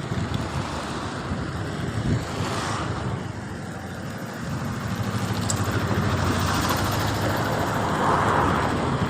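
Steady outdoor rumble with a hiss, growing louder about halfway through.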